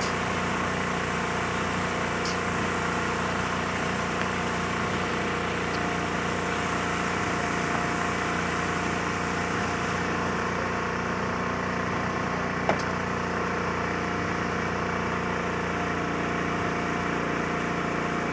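Small engine running steadily at a constant speed, with one short sharp click about two-thirds of the way through.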